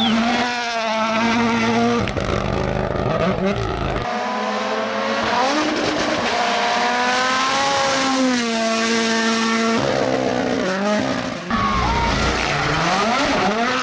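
Rally car engines revving hard, each climbing in pitch and dropping back at the gear changes, over tyre noise. The sound cuts abruptly between several different cars passing.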